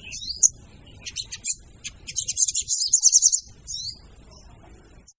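Sogon bird calling in fast, high chattering trills. The calls come in short bouts near the start, then run loudest and densest from about two to three and a half seconds in before breaking off.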